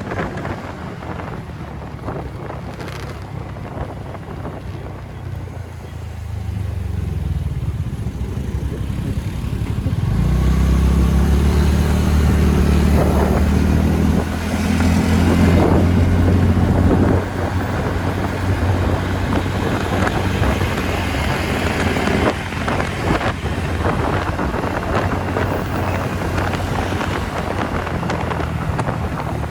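A TVS Ntorq scooter riding at road speed, with its engine running under wind noise on the microphone. Partway through, a deeper engine drone builds up and grows loud, then drops away suddenly a little past halfway.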